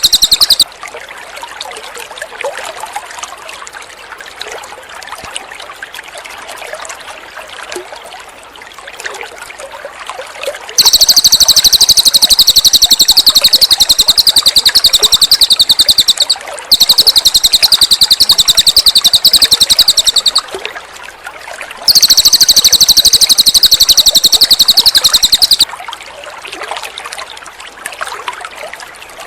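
Cililin bird singing a very fast, high trill in three long bouts, each lasting a few seconds, plus the tail of an earlier bout at the very start. Between bouts water trickles.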